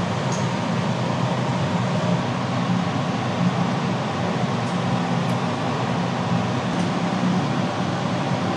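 A steady low mechanical hum with a rushing noise over it, unbroken throughout.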